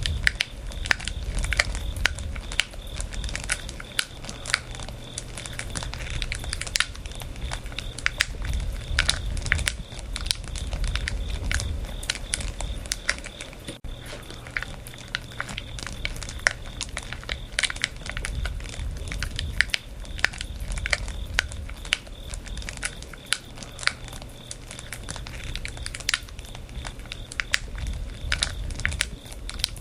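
Firewood burning in an open fire: dense, irregular crackles and sharp pops over a low rumble of the flames that swells and fades.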